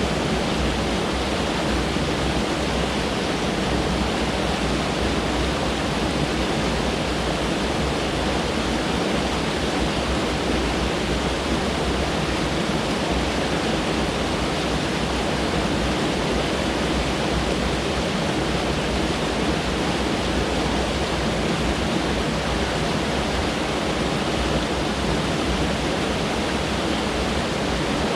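Mountain stream rushing over rocks, a steady full rushing of water that does not change.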